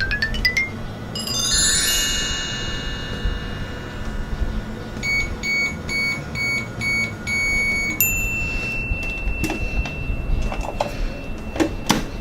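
Toy microwave's electronic sound effects: a fast rising run of beeps, a sparkling chime cascade, a quick string of short even beeps, then one long steady high beep that signals the cycle is done. A few light plastic clicks come near the end.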